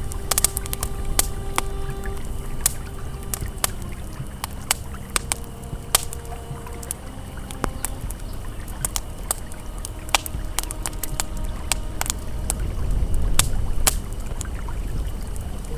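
Campfire crackling with frequent sharp pops and snaps, over the low steady rush of a flowing river. Soft, held ambient music notes sound faintly underneath, changing pitch every few seconds.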